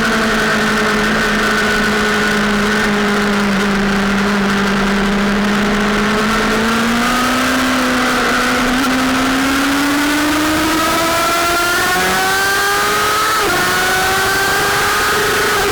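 Sportbike engine running under load on track, its pitch easing slightly and then climbing steadily as it accelerates. About thirteen seconds in the pitch drops sharply with an upshift and starts climbing again.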